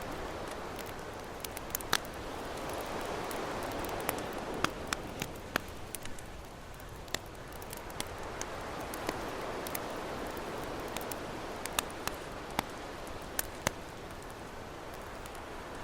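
Campfire crackling with frequent sharp pops over the wash of ocean waves, which swell and recede twice.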